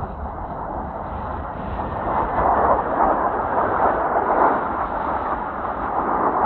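Jet noise from Blue Impulse Kawasaki T-4 jet trainers flying overhead, a loud rushing roar that builds about two seconds in and stays loud, with wind buffeting the microphone underneath.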